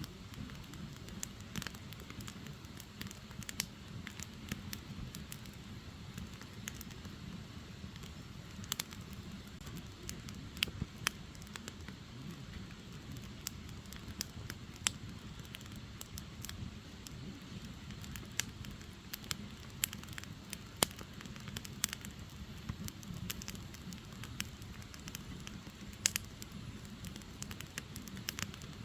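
Firewood logs burning, a steady low rumble of flames with irregular crackles and sharp snapping pops, a few of them louder.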